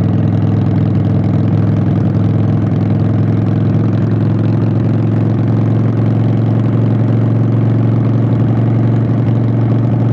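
Harley-Davidson Sportster 883's air-cooled V-twin running steadily through Vance & Hines Short Shots exhaust pipes, loud and even with no revving.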